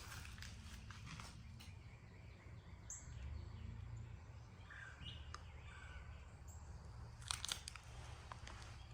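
Faint outdoor ambience with a steady low rumble, a few short bird chirps, and a brief run of clicks and crunches about seven seconds in.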